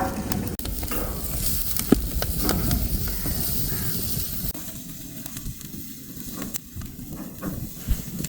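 Chicken frying in hot oil, sizzling, with a few scattered clicks. The sizzle is louder for the first half and drops off about halfway through.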